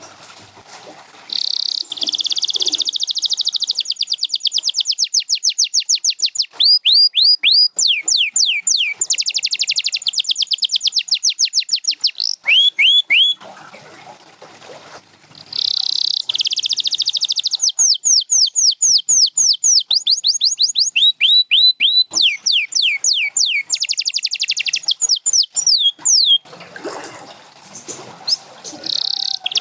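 Canary singing: long phrases of rapidly repeated falling notes and fast trills, broken by two short pauses, one about halfway through and one near the end.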